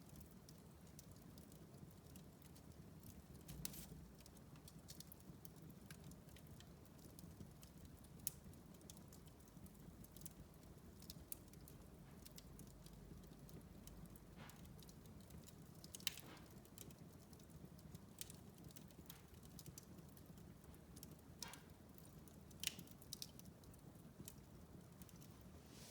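Wood fire burning in a fireplace, crackling softly with scattered small clicks over a low steady rumble. A few sharper pops stand out, about four across the stretch.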